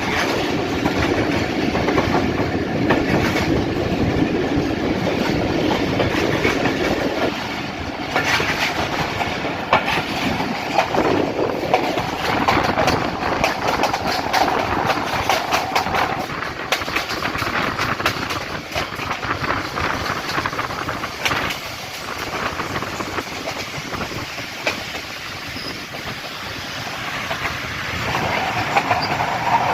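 Passenger train running along the line, heard from on board: continuous wheel rumble with clattering clicks as the wheels pass over rail joints.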